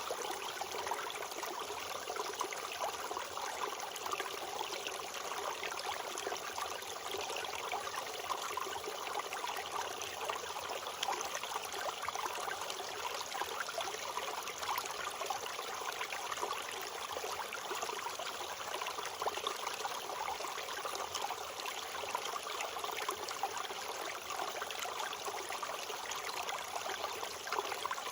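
Water flowing steadily in a stream, a continuous babble and trickle with no breaks.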